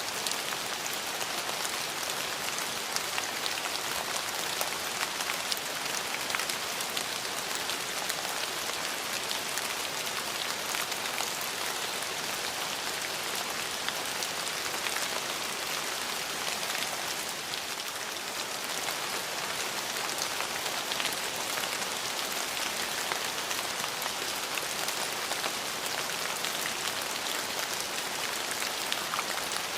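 Steady rain falling and pattering on surfaces, a dense even hiss with many fine drop ticks.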